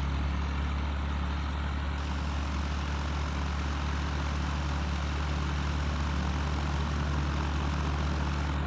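Small propeller airplane's engine running steadily with the door shut, holding an even, unchanging low drone without revving up.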